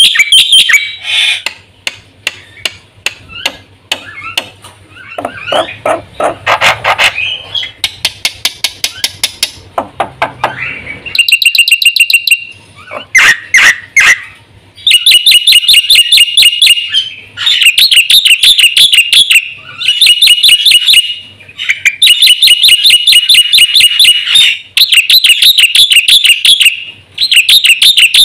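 Black-winged myna (jalak putih) in full song, with runs of rapid repeated chattering notes broken by short pauses, and a more varied passage in the first few seconds. The song is loaded with fill phrases ('isian').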